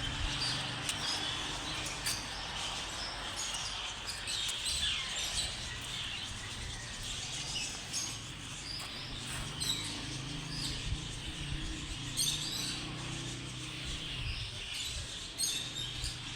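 Grey parrot giving short, high chirps and squeaks at irregular intervals, over a steady low hum.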